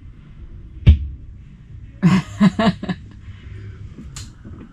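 A single heavy thump about a second in, then a short laugh of three or four quick bursts.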